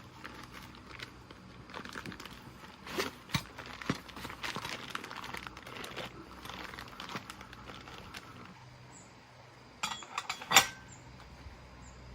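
Metal tools and parts clinking and knocking as they are handled, with a stretch of scraping in the middle and a louder sharp clink near the end.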